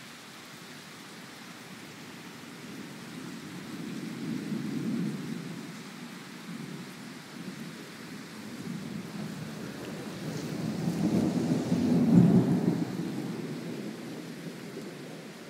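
Thunder rumbling twice over steady rain. A long roll swells about four seconds in, and a louder one builds from about ten seconds in and peaks a couple of seconds later.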